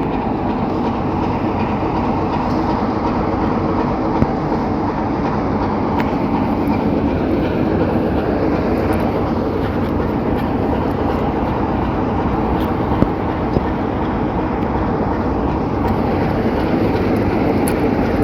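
Class 66-hauled train running past, a steady rumble of wheels on the rails with a few faint clicks.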